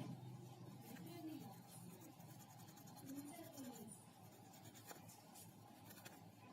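Small brush scrubbing a phone's circuit board wet with isopropyl alcohol, faint scratchy strokes, to clear off water corrosion.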